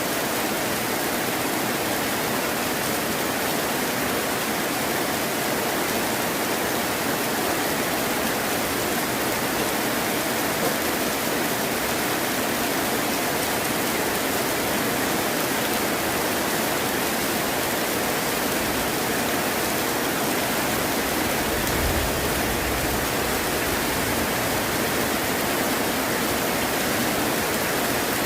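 Heavy rain falling steadily, an even hiss, with a low rumble of thunder about three-quarters of the way through.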